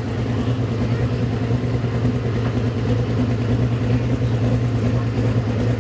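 Diesel 4x4 pulling truck's engine running at a steady pitch with a low, even drone, the chain to the sled taken up tight before the pull starts.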